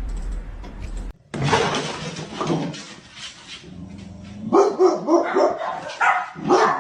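A dog barking repeatedly, the barks coming thicker in the second half.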